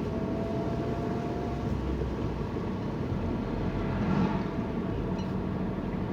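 Steady road and engine noise inside a moving car's cabin, with a faint thin tone during the first second and a half or so.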